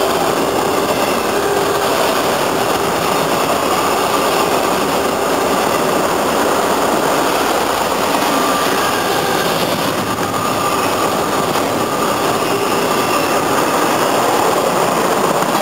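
A train passing close by, a steady loud rush of wheels on the rails with faint ringing tones over it.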